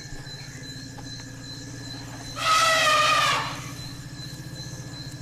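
Elephants vocalising: a steady low rumble, with one loud, wavering, higher-pitched call lasting about a second, starting about two and a half seconds in.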